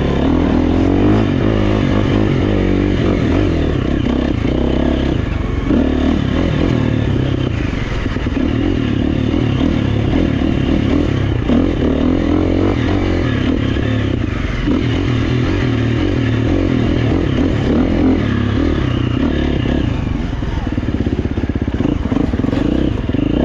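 Four-stroke single-cylinder dirt bike engine, a GasGas EX350F, ridden hard on trail with revs rising and falling constantly as the throttle opens and closes, along with clattering of the bike over rough ground.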